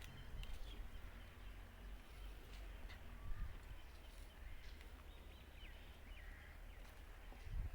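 Faint outdoor background: a steady low rumble with a few short, thin bird chirps, and a soft thump about three seconds in.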